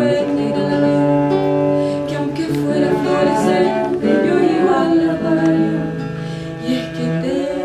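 Live acoustic ensemble music: guitar accompaniment under sustained melodic singing, with no clear words.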